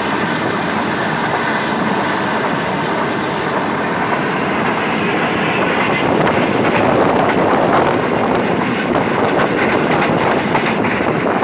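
Passenger express train running at speed, heard from a coach window: a steady rumble and clatter of wheels on the rails, getting a little louder about halfway through.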